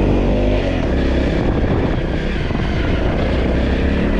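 Motorcycle engine running steadily while riding a dirt trail.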